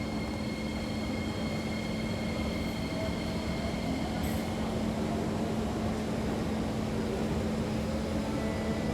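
Inside a Kawasaki C151 metro train: a steady rumble with a constant low hum and several high-pitched whine tones that fade out about four and a half seconds in.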